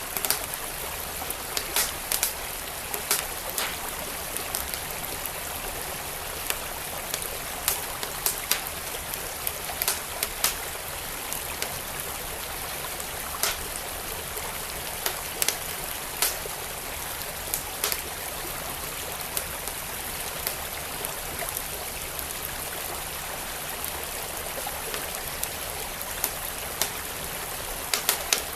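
Steady rush of a flowing creek, with a wood fire crackling over it in sharp, irregular pops, sometimes several close together.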